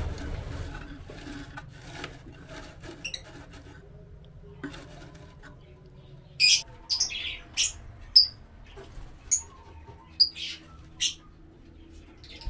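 Lovebird calling: a run of about eight short, sharp, high-pitched chirps and squawks in the second half, after a few seconds of faint scratching.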